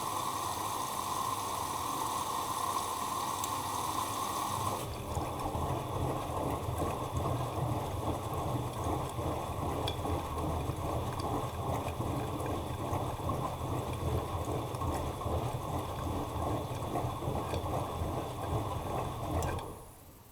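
Bosch Maxx Advantage WFCX2440 slimline washing machine with water rushing through it. For about five seconds there is a steady whine over the water noise; then the whine drops out and a rougher, lower water noise carries on until it cuts off suddenly near the end.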